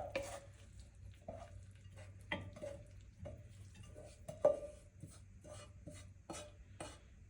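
A spoon or spatula scraping and knocking against a pan, about a dozen uneven strokes, as the buttery cooked leeks are served out onto a plate. The loudest knock comes about four and a half seconds in.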